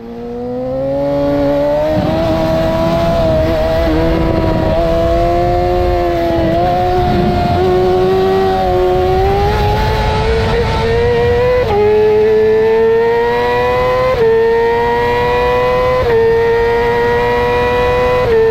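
2008 Yamaha R6 inline-four engine at racing revs. Its pitch climbs slowly for the first half, then it upshifts four times in the second half, each shift a sudden drop in pitch followed by a fresh climb.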